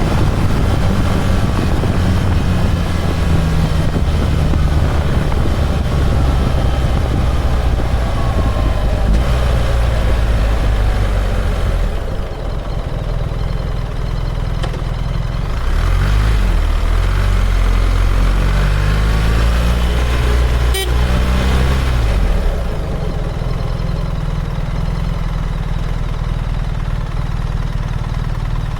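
BMW R1300 GS boxer-twin engine running under way, with wind rushing over the microphone. Past the middle the engine pitch falls and then climbs again as the bike slows and picks up speed.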